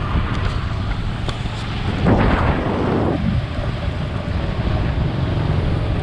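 Wind rushing over the microphone of a moving motorcycle with steady low road and engine rumble. A louder whoosh swells about two seconds in and fades after about a second.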